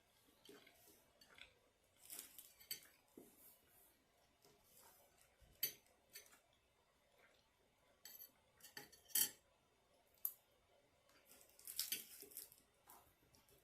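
Metal spoon scraping and clinking against a takeout food container in scattered short strokes, the sharpest clink about nine seconds in.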